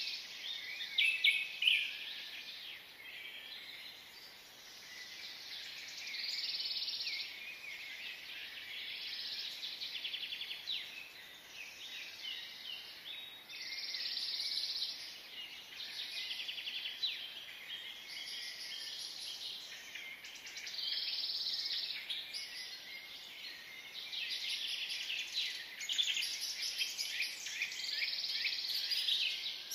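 Birds chirping in repeated high bursts, one every couple of seconds, over a steady background hiss.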